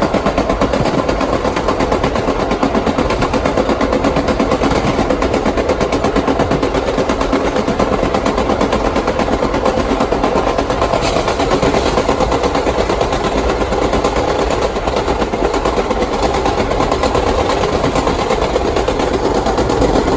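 Vintage R1/R9 subway car running along the line, a loud continuous rapid clatter and rattle of wheels, trucks and car body.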